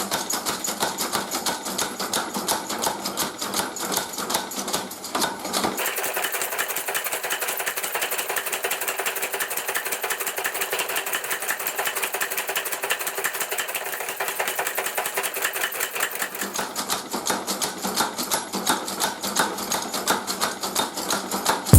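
Rapid, evenly repeated mechanical strikes on metal, many a second, like a power hammer working hot iron; the tone shifts abruptly about six seconds in and again near sixteen seconds.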